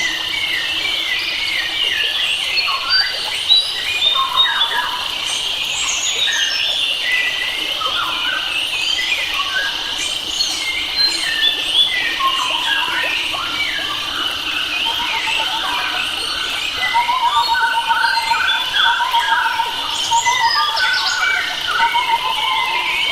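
A chorus of wild forest birds, many calling and singing over each other in short chirps and whistles. A steady high-pitched drone runs underneath. In the second half a fast, lower trill repeats.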